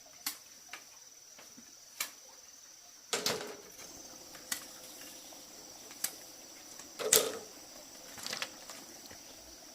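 Irregular sharp knocks and taps, about eight of them, the loudest a cluster about seven seconds in, over a steady high insect drone.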